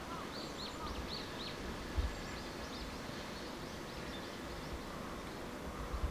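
Small birds chirping in a quick series of short, hooked notes, busiest in the first half and fading out, over a steady outdoor background hiss. A brief low thump about two seconds in, and another near the end.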